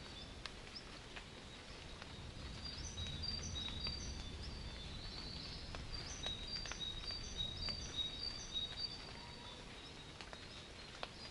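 A songbird repeating short high whistled notes over and over, above a low rumble of distant thunder that swells in the middle, with a few scattered faint clicks.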